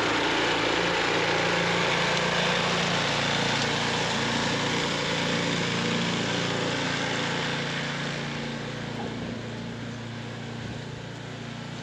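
Gas snowblower engine running steadily under load, growing gradually quieter in the second half.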